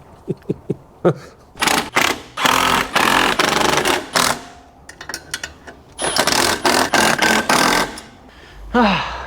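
Power tool rattling in two long bursts, the rapid hammering of an impact wrench doing up the clutch bolts, with a few small clicks before and a falling whine as the motor runs down near the end.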